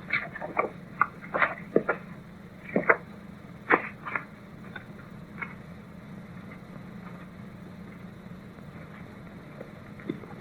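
About a dozen sharp taps and knocks at an uneven pace, thinning out after about four seconds, over a steady low hum.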